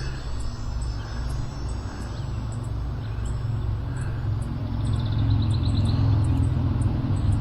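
Wind buffeting the microphone, with the electric motor and propeller of an RC Turbo Timber Evolution plane droning in the air, growing louder toward the end as it comes nearer.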